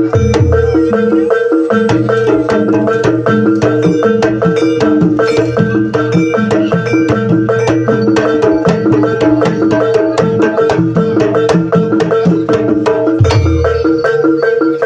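Javanese gamelan accompaniment for an ebeg (jaranan) trance dance: hand drums beating a fast, even rhythm over struck metal notes and a steady ringing tone, with deep drum strokes just after the start and again near the end.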